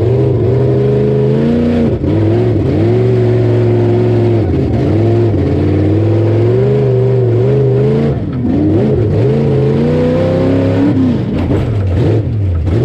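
Off-road rough truck's engine revving hard, its pitch rising and dropping again and again as the throttle is worked, then falling away near the end.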